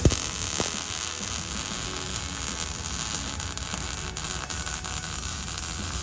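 MIG (gas metal arc) welder arc crackling and hissing steadily as a practice weld bead is laid on steel plate, over a low hum.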